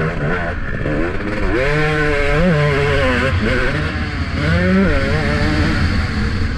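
Motocross bike engine revving up and down as the rider works the throttle through the laps, over steady wind rumble on a helmet-mounted camera.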